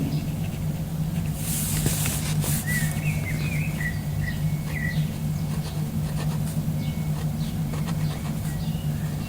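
Small birds chirping in short bursts, twice, over a steady low hum. A brief soft hiss or rustle comes about two seconds in.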